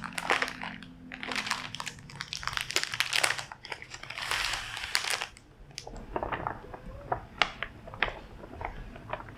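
Crinkling and crackling of something being handled for about five seconds, then scattered light clicks and taps.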